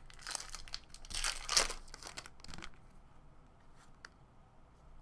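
Foil wrapper of a 2017 Topps Series 1 baseball card pack being torn open and crinkled, in a run of rustling bursts over the first two and a half seconds, loudest in the middle, then a few faint ticks of cards being handled.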